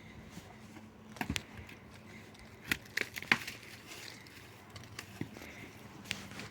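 A handful of sharp, scattered knocks and clicks, as of hand work with tools or materials, over a faint steady hum.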